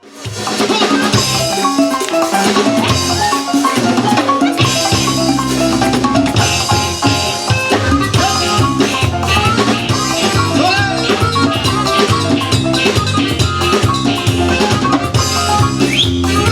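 Tejano band playing live, with drum kit and pitched instruments, the music starting at the opening and the bass line coming in about four and a half seconds in.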